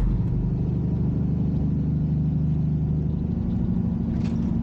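Peterbilt semi truck's diesel engine running steadily while driving, heard from inside the cab as an even low drone.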